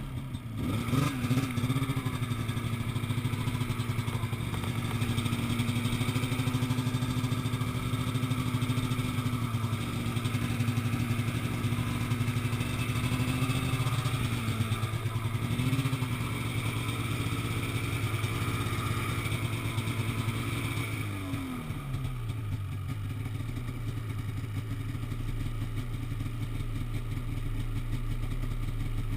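An engine running steadily, its pitch dipping and recovering about a second in and again near the middle, then dropping to a lower, slower speed about three quarters of the way through.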